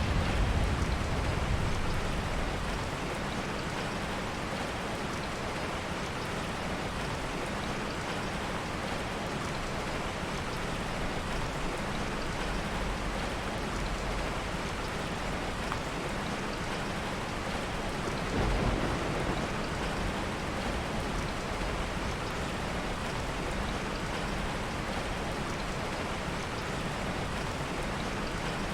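Heavy rain falling steadily, with soft thunder: a low rumble fading away over the first couple of seconds and another brief rumble about two-thirds of the way through.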